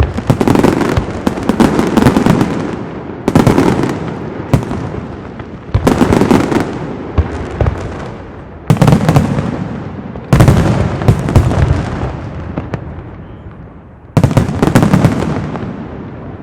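Pirotecnia Zaragozana castillo fireworks: loud waves of bangs and dense crackling, about six salvos, each breaking in sharply and trailing off over a second or two before the next.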